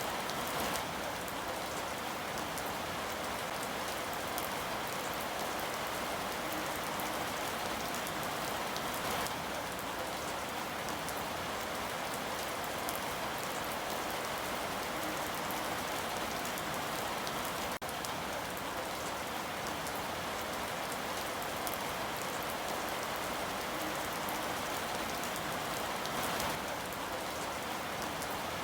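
Steady rain falling, an even hiss of countless drops. There is a split-second break about two-thirds of the way through.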